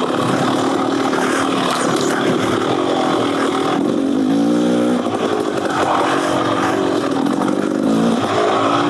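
Beta Xtrainer 300's two-stroke single-cylinder engine, fitted with an FMF Gnarly exhaust, running under load on a trail ride, its revs rising and dropping several times as the throttle is worked.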